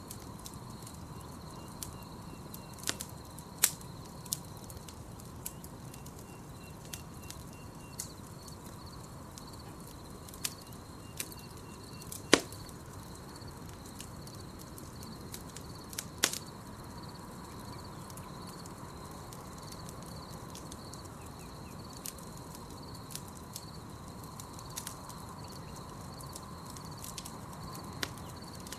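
Campfire crackling, with scattered sharp pops of wood in the flames, a few of them much louder than the rest. Under it, night insects chirp in a steady pulsing drone.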